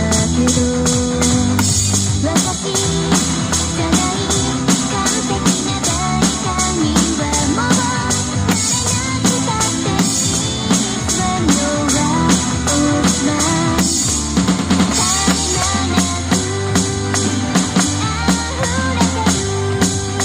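Drum kit played along to a recorded J-pop song, with steady, regular bass drum and cymbal hits under the song's melody.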